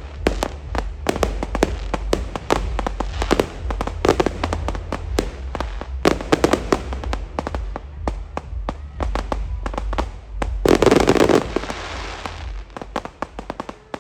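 Fireworks going off in rapid succession: a dense run of sharp cracks and pops, with a louder, longer burst about eleven seconds in, thinning to scattered cracks near the end.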